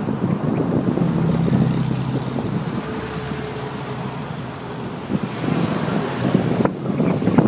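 Engines of a line of sports cars and other vehicles running as they drive slowly past at close range, a low steady drone with a higher engine note around the middle.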